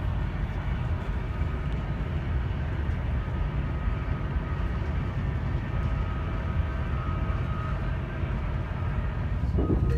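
Steady rumble of a passenger train running along the line, heard from inside the carriage, with a faint high whine for a few seconds in the middle.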